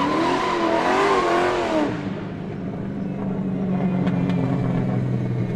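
Car engine revving hard with wavering tyre noise, then settling about two seconds in to a steady low engine note.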